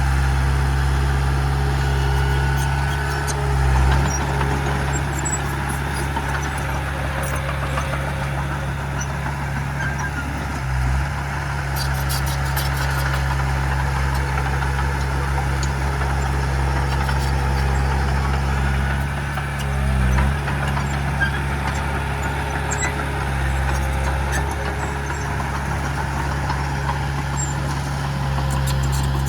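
Heavy diesel engine of earthmoving equipment running steadily at a constant low note, briefly dipping three times as the load changes, with a few faint metallic clicks.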